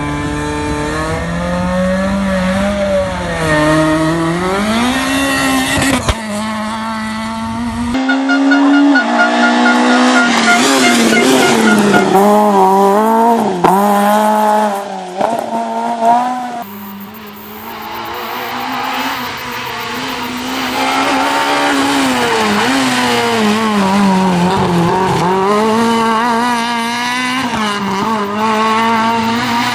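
Small Fiat rally car engines at high revs, the pitch climbing and dropping with throttle and gear changes, in several cut-together passes: the sound changes abruptly about 6, 8 and 16 seconds in.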